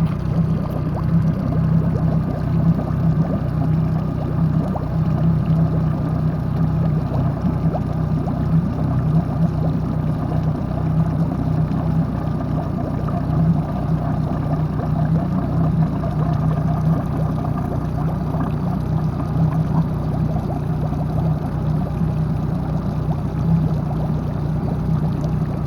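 Yamaha EW4 boat engine running steadily at an unchanging speed.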